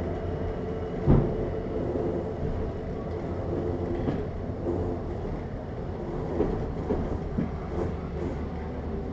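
Class S9 diesel multiple unit moving slowly, heard from the carriage window: a steady low engine drone, with the wheels knocking over rail joints and points, loudest about a second in and lighter several times after.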